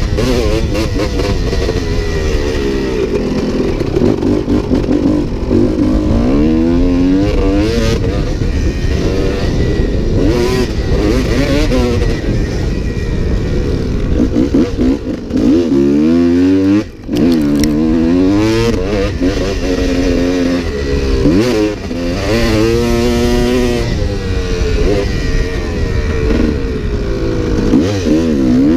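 Motocross dirt bike engine ridden hard around a track, revving up and down over and over as the rider works the throttle and shifts gears, over a steady rumble. About seventeen seconds in the engine sound drops off sharply for a moment, then picks straight back up.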